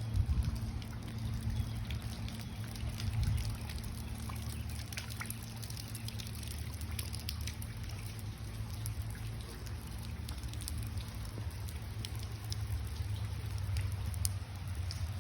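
Rain falling, with scattered sharp drips and patters over a steady hiss, and a steady low hum underneath.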